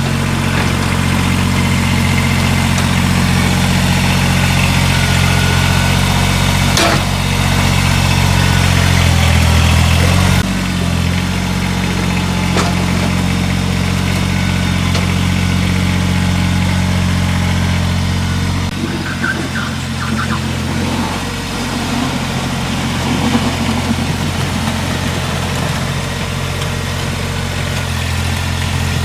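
Kubota BX2380 sub-compact tractor's three-cylinder diesel engine running steadily while plowing snow, its note changing twice. Two sharp knocks come in the first half.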